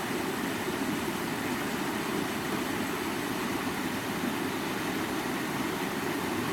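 Creek water running steadily over rocks, an even rushing sound with no let-up.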